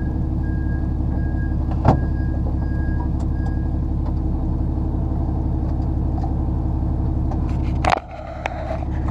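Lorry's diesel engine running steadily, heard from inside the cab, with a sharp click about two seconds in. Near the end the engine hum drops out suddenly and builds back, with a few sharp knocks.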